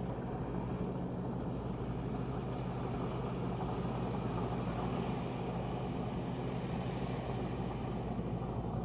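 Engine of the rice-harvesting tractor running steadily with an even hum.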